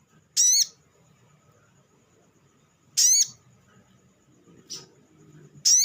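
Olive-backed sunbird calling: three short, sharp, wavering high calls about two and a half seconds apart, with a fainter call between the last two.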